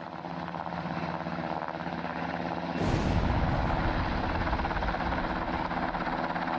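A steady droning hum with several fixed low tones under it, like an engine or rotor sound effect. A short whoosh comes about three seconds in, after which the drone is a little louder.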